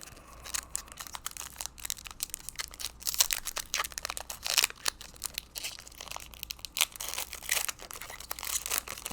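Plastic trading-card pack wrapping being crinkled and torn open, a dense, irregular crackling that is loudest mid-way.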